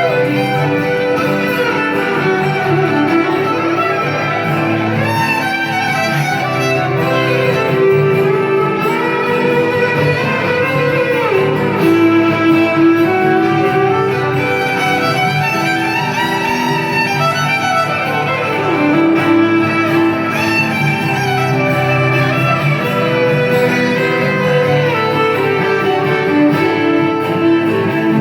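Live band music with a violin playing over guitar, steady and loud throughout.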